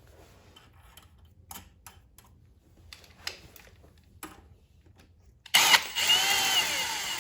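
Light clicks and handling knocks of tools and parts, then near the end a power drill runs for under two seconds, its motor pitch rising and then falling as it speeds up and slows.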